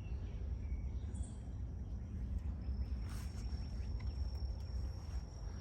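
Outdoor rural ambience: a steady low rumble, a brief high bird chirp about a second in, and a thin, steady, high insect tone that sets in about halfway through.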